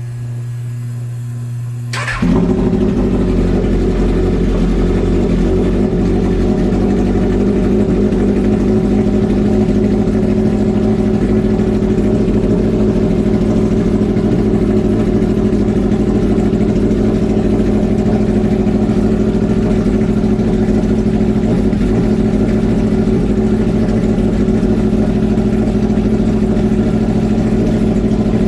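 Kawasaki ZX-12R inline-four engine cold-started: a steady hum for about two seconds, then the engine catches and settles into a steady idle.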